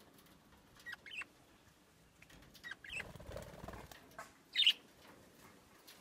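Quiet, scattered short chirps of pet budgerigars, the loudest about four and a half seconds in, with a soft rustle about three seconds in.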